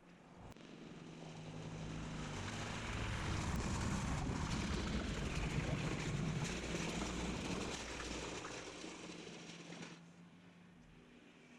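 Kubota L3200 tractor's diesel engine running as the tractor passes by. It grows louder for the first few seconds, peaks in the middle, then fades away about two seconds before the end.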